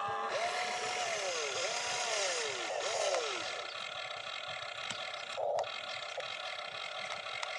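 Small electric motors of a radio-controlled construction toy whining, speeding up and slowing down several times in quick succession, with a short burst of motor noise later on.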